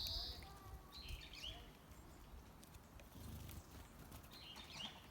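Wild songbirds giving short chirping calls three times, at the start, about a second and a half in and near the end, with faint scattered clicks.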